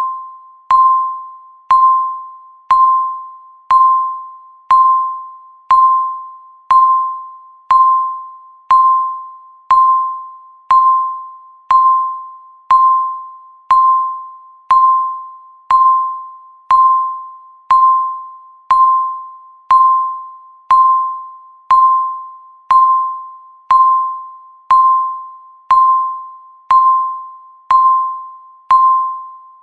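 Countdown timer's electronic beep sounding once every second, each a single mid-pitched tone that starts sharply and fades quickly, about thirty in a row at an even pace.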